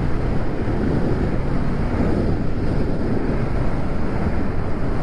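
Steady wind rushing over the microphone of a rider on a moving Bajaj Dominar 400 motorcycle, with its single-cylinder engine and road noise running underneath.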